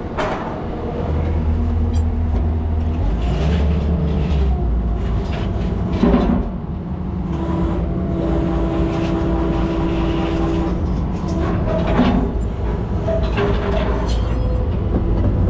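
Skid steer's diesel engine and hydraulics working as it is backed and loaded onto a truck bed, the engine tone rising and falling several times with a steady hydraulic whine for a few seconds in the middle. Two loud metallic clunks land about six and twelve seconds in.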